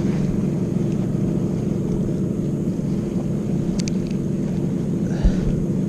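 A motorboat engine running steadily, a constant low hum, with a couple of small clicks about four seconds in.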